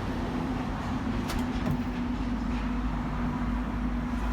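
Steady mechanical hum with a low rumble and a constant drone, with two faint clicks near the middle.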